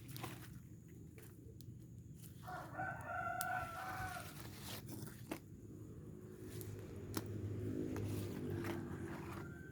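A rooster crowing once, a call of about a second and a half, with a fainter, lower-pitched call later on. Scattered sharp clicks sound throughout.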